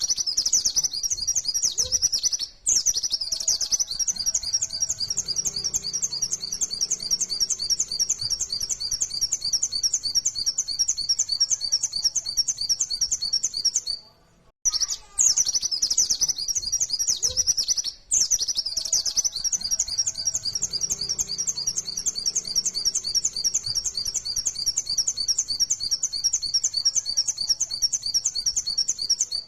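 Pleci (white-eye, Zosterops) singing a long, fast, high-pitched warbling song in near-continuous rapid bursts, the 'nembak' style, broken only by brief pauses about two and a half, fourteen and eighteen seconds in. The same run of song repeats about every fifteen seconds.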